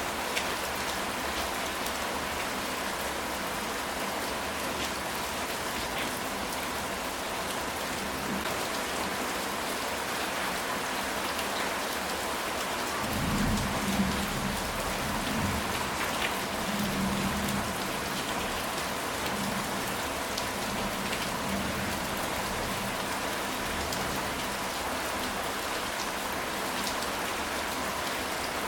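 Steady rain falling on a ceramic tile roof, with scattered individual drops ticking. About halfway through, a low rumble of thunder rolls for a few seconds.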